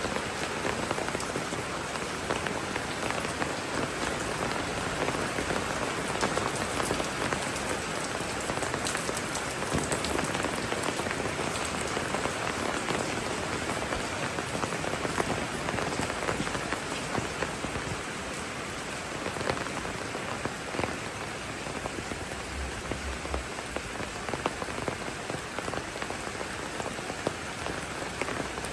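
Steady rainfall, a constant hiss filled with many sharp, distinct ticks of individual drops landing close by.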